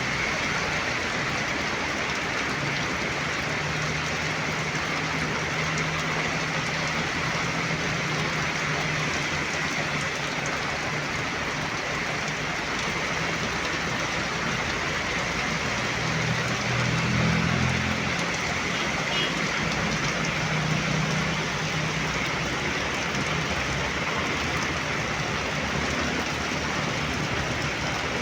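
Heavy rain falling steadily. The low hum of passing vehicle engines comes in under it twice, the louder pass about two-thirds of the way through.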